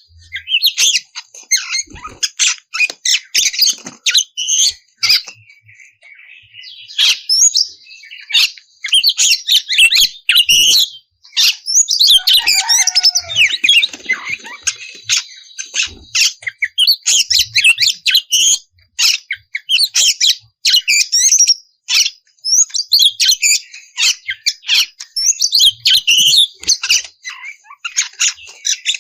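Oriental magpie-robin (kacer) singing loudly in full song: long runs of fast, varied whistles and chattering phrases, broken by a few short pauses.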